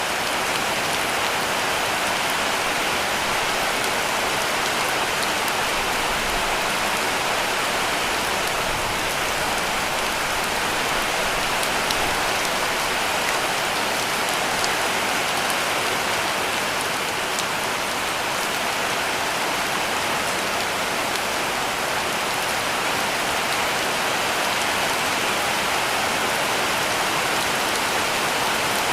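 Heavy rain falling steadily on a cabin roof: an even hiss with scattered sharper drop taps.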